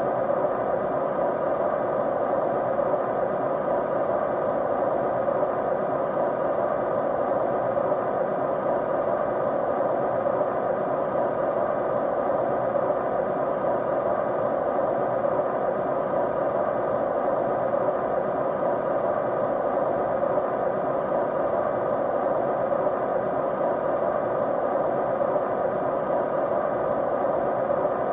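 Steady white noise for sleep or study, an unchanging hiss strongest in the middle range with a faint steady hum in it.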